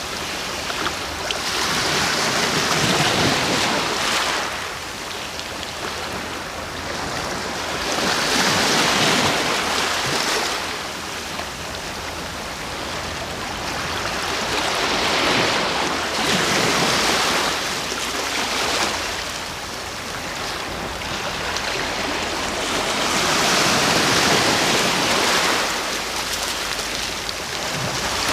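Sea waves washing onto the shore, rising and falling in slow surges about every six seconds.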